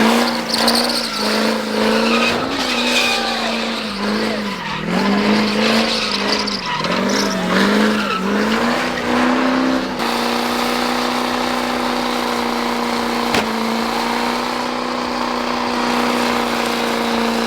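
Diesel truck engine revved hard. Its pitch drops and climbs again several times, then about ten seconds in it is held at a steady high rpm.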